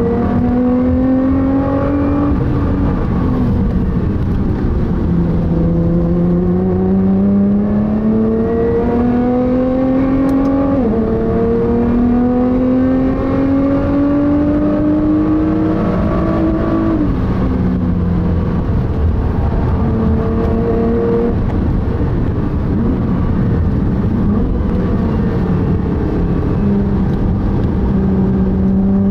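A car's engine heard from inside the cabin, pulling hard through the gears: its note climbs steadily, drops sharply at two quick upshifts in the middle of the run, then settles lower and steadier before climbing again near the end. Road and tyre noise hums underneath.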